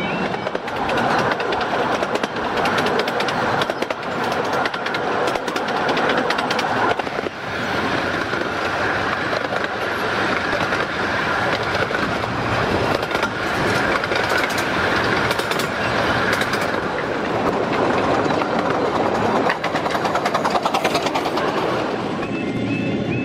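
A 15-inch gauge miniature steam train running along the line, heard from an open carriage window: a steady rush of wheel and track noise with many sharp clicks as the wheels pass over rail joints.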